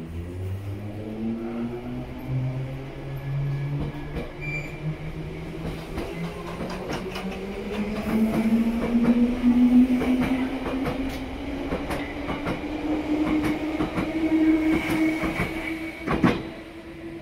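Bakerloo line 1972 Stock tube train pulling away from the platform. Its traction motors give a whine that rises steadily in pitch as it gathers speed, and the wheels click over the rail joints as the carriages pass. A single sharp knock comes near the end.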